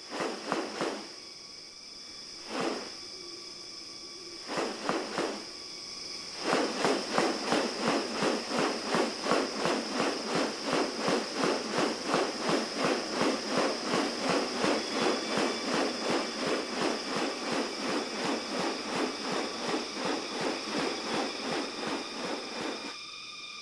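Rainforest ambience: a steady high-pitched insect whine, a few short rasping calls in the first five seconds, then from about six seconds in a loud pulsing call repeating about three times a second until just before the end.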